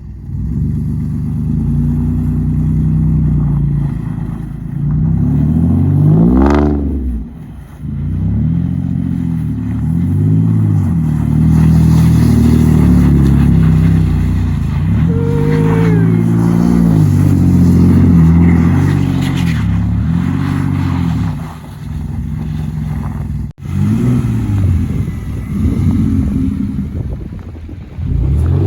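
2008 Audi A5 coupe's engine through a straight-piped exhaust with an X-pipe, revved again and again in the stationary car: the pitch climbs and falls repeatedly, with one sharp high rev about six seconds in.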